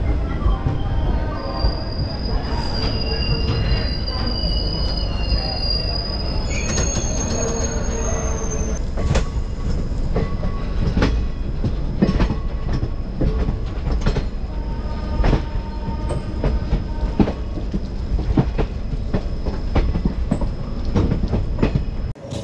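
Netaji Express passenger train running on the rails under a steady rumble. For the first several seconds its wheels squeal with steady high-pitched tones. After that a run of uneven clicks and knocks from the wheels over the rail joints takes over.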